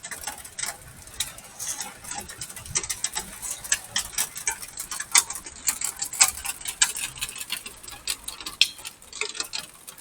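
Hailstones hitting and bouncing on the ground, an irregular rattle of many sharp ticks.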